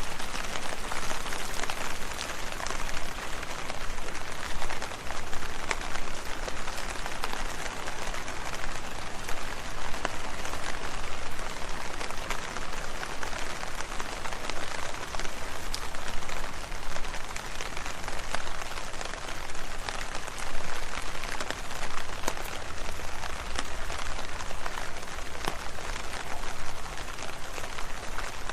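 Steady rain, with many individual drops pattering on leaves.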